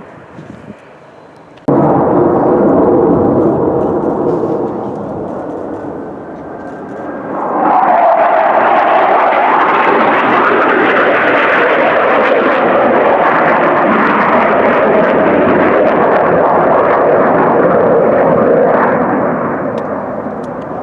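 Loud jet aircraft engine noise from a low pass. It starts abruptly just under two seconds in and eases off, then swells again about eight seconds in with a falling whine, and dies down near the end.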